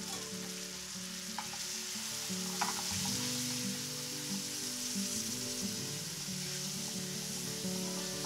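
Chopped tomatoes and onions sizzling in hot oil in a frying pan as they are stirred with a wooden spoon, which knocks against the pan a couple of times. Soft music plays underneath.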